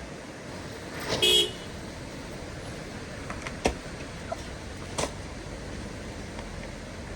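A short, loud horn-like beep about a second in, followed by a few sharp clicks, over steady outdoor background noise.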